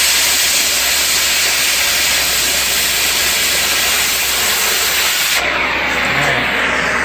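Loud, steady hiss of gas escaping under pressure. About five seconds in, its high end drops away and it thins out.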